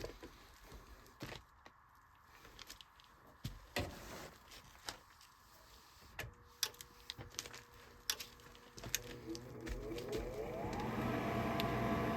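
Scattered light clicks and handling knocks, then, about nine seconds in, a furnace's draft-inducer fan motor starts, rises in pitch as it spins up, and settles into a steady hum as the furnace begins its ignition cycle.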